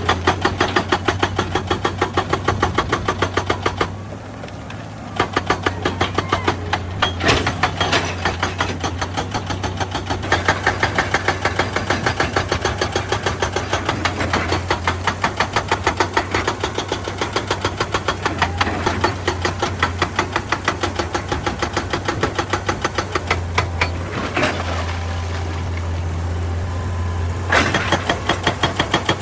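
Excavator-mounted hydraulic rock breaker hammering stone in rapid, even blows over the excavator's steady diesel engine hum. The hammering stops briefly about four seconds in and again for about three seconds near the end while the engine keeps running.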